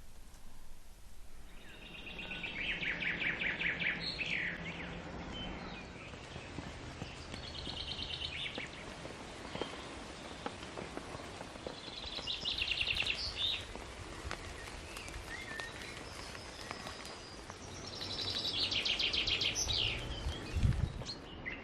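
A songbird repeats a fast trilled song phrase ending in a short flourish, four times about every five seconds, over a steady hiss of rain.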